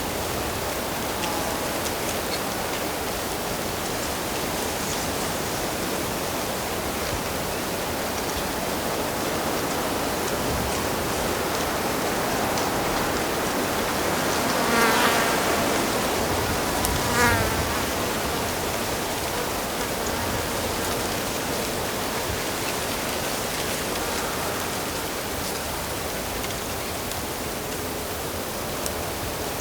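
Steady rush of flowing stream water. About halfway through, a buzzing insect such as a fly passes close twice, two seconds apart.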